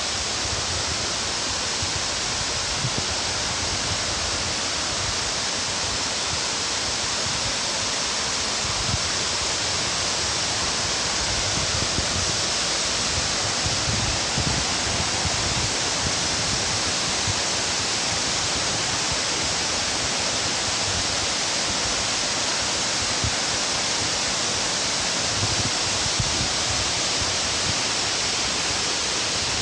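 Waterfall pouring steadily, heard close up as an even rushing roar. The flow is lighter than usual.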